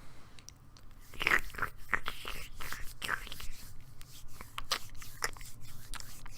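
Irregular wet smacking and squelching noises made close to the microphone by a person imitating a monkey rubbing feces on its hands.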